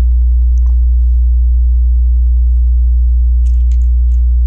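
Loud steady electrical mains hum, with a ladder of fainter steady overtones, the sign of a ground loop or interference in the recording chain. A few faint clicks of plastic Lego bricks being handled, about half a second in and again between three and four seconds in.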